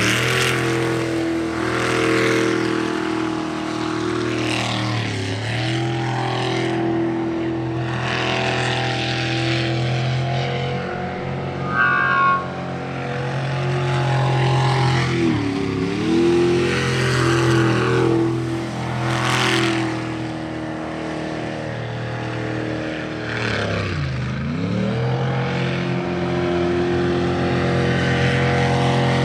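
Jet sprint boat engine running at high revs through a timed run. Its pitch drops sharply and climbs back three times as the throttle comes off and goes back on.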